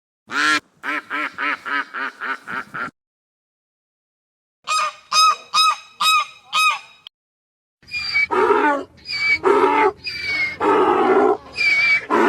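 Domestic fowl calling in three separate runs: a quick series of about nine short calls, then five calls after a pause, then five harsher, noisier calls.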